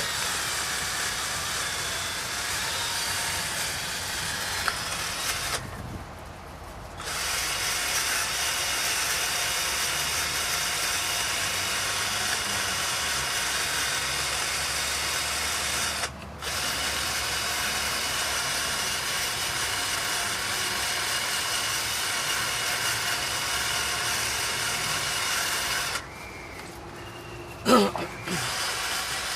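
Handheld power tool running steadily as it cleans carbon off metal engine parts, a cylinder head and block. It stops briefly about six seconds in and again around sixteen seconds, then pauses near the end and spins back up.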